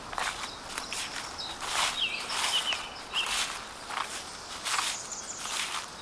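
Footsteps crunching through dry fallen leaves at a steady walking pace, a step roughly every three-quarters of a second. Several short bird chirps sound between the steps, mostly near the middle.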